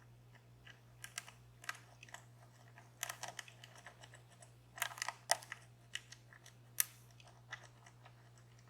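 Irregular small clicks and taps of a lock pick and tension tool working the pins of a DOM Plura lock, coming in short clusters.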